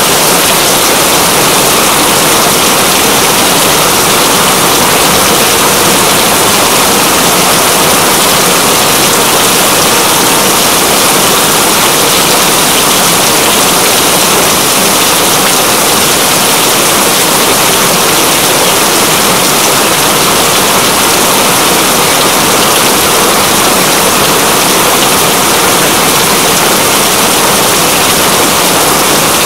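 Steady, even downpour of rain, a dense hiss of raindrops with no breaks or changes.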